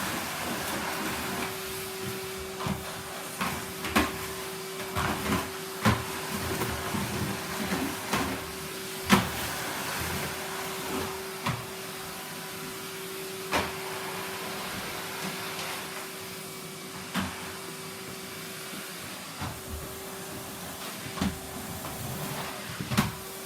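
Numatic Henry canister vacuum cleaner running with a steady motor hum, with scattered sharp clicks and knocks as debris is sucked up; the loudest knock comes about nine seconds in.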